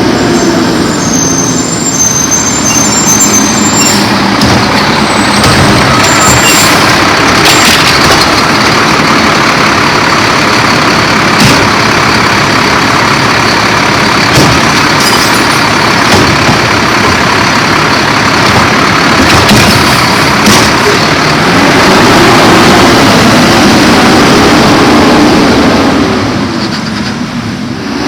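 Garbage truck running up close, loud and steady, with several sharp clanks through the middle and the engine revving up and back down near the end.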